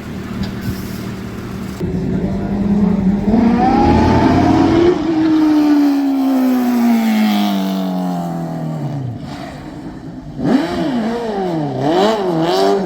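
Twin Suzuki Hayabusa-engined mini truck accelerating hard: the engine note climbs for a few seconds, then falls away steadily over about four seconds. Near the end it revs up and down several times in quick succession.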